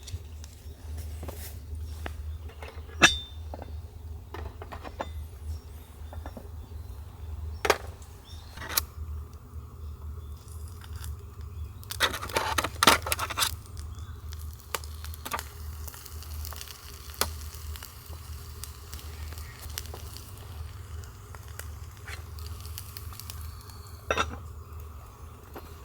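Scattered clicks, clinks and knocks of small things being handled, with a short burst of clattering about twelve seconds in, over a steady low hum.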